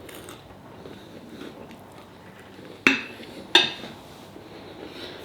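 Cutlery knocking against a plate twice, two sharp clinks less than a second apart, over a low background of eating sounds.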